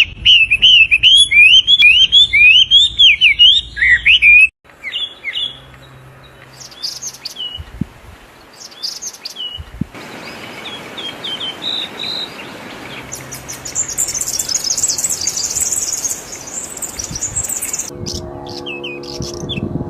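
Birds chirping, several separate takes joined with abrupt cuts. It opens with a loud, fast series of rising-and-falling chirps for about four seconds, followed by scattered quieter chirps and high twittering. A lower-pitched call comes near the end.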